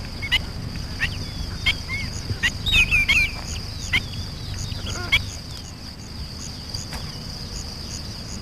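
Birds calling in short chirps, several in the first five seconds and fewer after, over a steady high-pitched whine and a low rumble.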